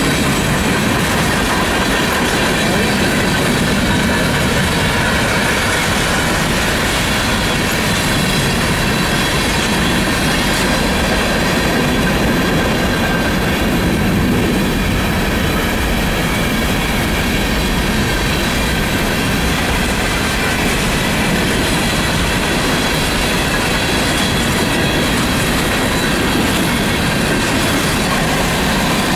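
Freight train's hopper cars rolling steadily past: a continuous rumble of steel wheels on rail with clickety-clack over the joints and steady high-pitched wheel squeal.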